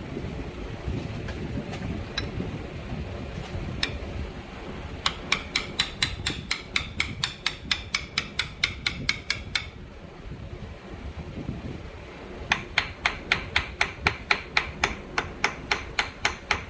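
Rapid light hammer taps, about five a second, in two long runs, driving a shaft-extension adapter sleeve onto a small engine's crankshaft; a steady fan noise sits underneath.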